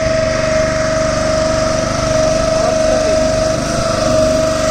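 Small boat engine running at a steady speed, a constant drone with a fast, even low throb.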